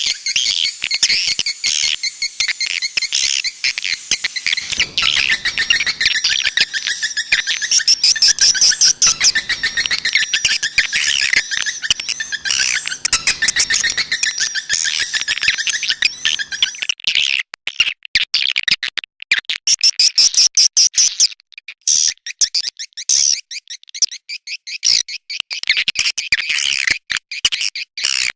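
Swiftlet lure call: a dense, rapid twittering of edible-nest swiftlets, high chirps and quick clicks layered thickly, played to draw swiftlets into a nesting house. About two-thirds of the way in it breaks up into separate bursts with short gaps.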